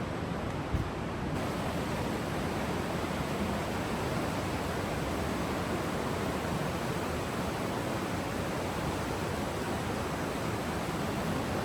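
Steady rushing of stream water flowing through a rocky canyon, with one brief knock just under a second in.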